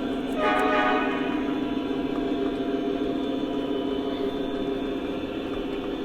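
Lionel Legacy SD40-2 model locomotive's onboard sound system playing a steady diesel engine rumble as the train runs, with a short burst of higher tones about half a second in.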